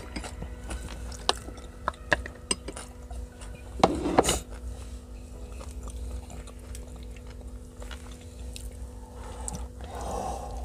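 Close-up eating sounds of grilled pork barbecue skewers: scattered wet mouth clicks and chewing, with a louder burst about four seconds in. A steady low hum runs underneath.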